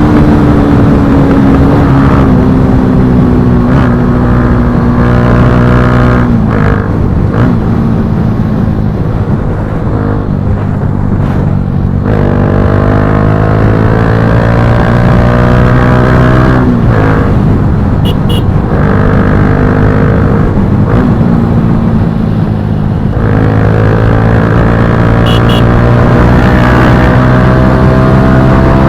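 Bajaj Pulsar NS160's single-cylinder engine through an Akrapovic slip-on exhaust, being ridden hard. Its pitch climbs under acceleration and drops back at gear changes, several times over.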